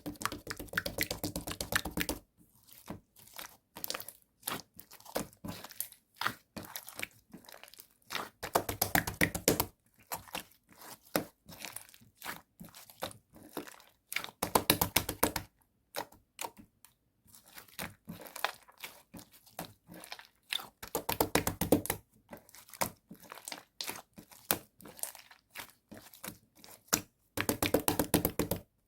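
Cookies-and-cream slime being squeezed and stretched by hand, making dense runs of small crackles and pops that come in louder clusters every few seconds.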